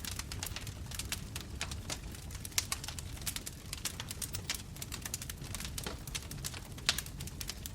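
Wood fire burning, with many irregular sharp crackles and pops over a steady low rumble of the flames.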